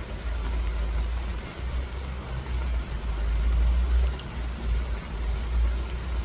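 Rain falling as a steady hiss, over a loud, uneven low rumble that swells and dips.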